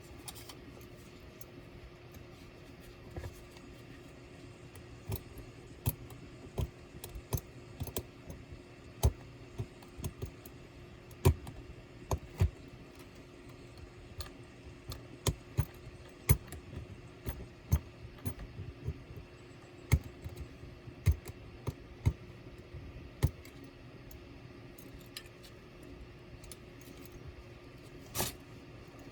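Irregular sharp clicks and light clinks of small tools, screws and plastic laptop parts being handled during disassembly, over a low steady hum.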